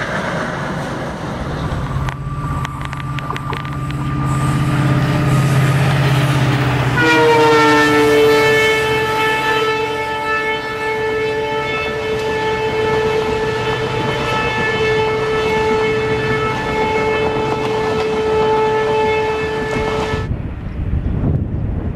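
Diesel locomotive horn sounded in one long, steady blast of about thirteen seconds that cuts off abruptly. Before it, the locomotive's engine runs with a low hum and some rail clatter.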